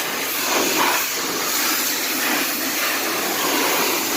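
Pressure washer spraying a jet of water onto a car's bumper: a steady hiss of spray.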